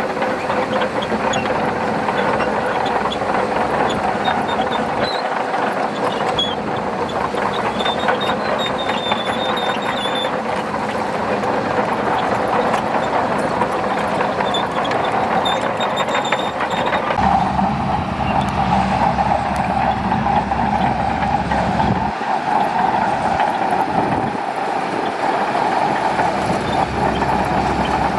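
Shantui DH17C2 crawler bulldozer at work, its steel tracks clattering steadily over its diesel engine. About two-thirds of the way through, a deeper engine rumble comes in and twice drops away briefly.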